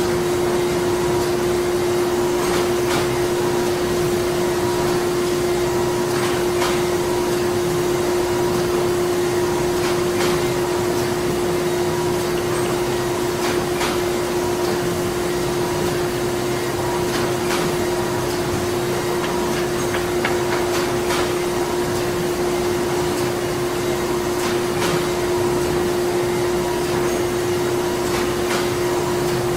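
Printing-plant machinery running continuously: a steady mechanical drone with a constant hum and a fainter higher tone, and occasional light clicks.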